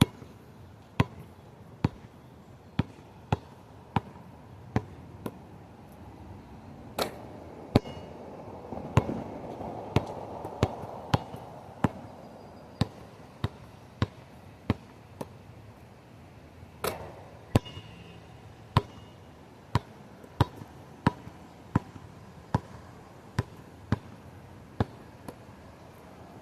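A long series of sharp, short knocks or taps, about one to two a second at uneven spacing, over wind noise that gusts up about a third of the way in.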